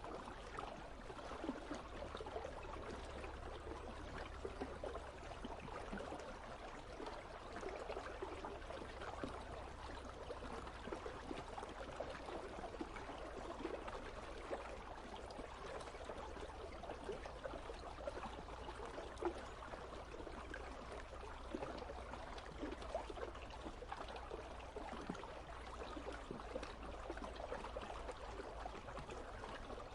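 Icy river flowing: a steady, faint rush and trickle of running water.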